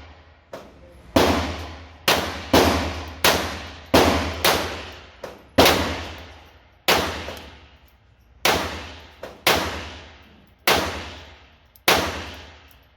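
A string of handgun shots fired one at a time, about a dozen at an uneven pace of roughly one a second, each with a long reverberant decay in an indoor range; a few shots are fainter than the rest.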